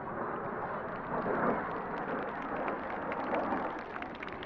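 BAE Hawk T1 jet trainers in display flight: a steady rushing rumble of jet engine noise that swells about a second and a half in, with short crackles growing toward the end.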